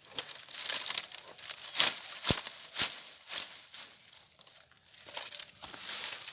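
Dry leaves and sticks rustling, crunching and crackling as wood is piled for an unlit campfire, with a few sharp knocks about two to three seconds in.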